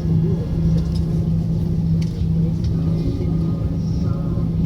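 Cabin noise inside an Airbus A340-300 taxiing after landing: a steady low hum over a low rumble.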